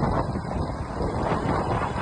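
Wind buffeting the microphone on a moving Hero Splendor motorcycle, with the engine running underneath.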